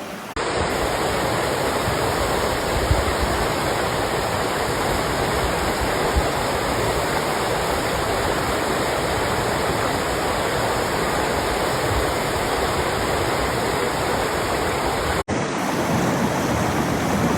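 Rushing water, a steady, even roar like a stream or waterfall. It breaks off abruptly about fifteen seconds in and resumes straight away.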